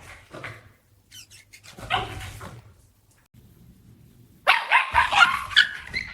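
A dog barking angrily: a few short barks, a lull, then a fast, loud run of barks starting about four and a half seconds in.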